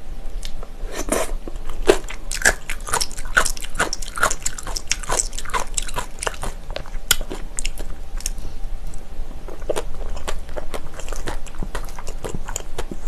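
Close-miked chewing of a mouthful of spicy bibimbap with crunchy vegetables (seasoned radish, cucumber, bean sprouts): many short crunches and mouth clicks. A metal spoon scrapes and clinks in a stainless steel bowl.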